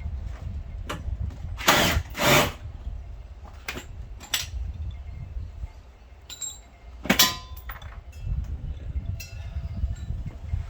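Hand tools knocking and clanking against metal while working on a car, with two loud clanks about two seconds in and another about seven seconds in, over a steady low rumble.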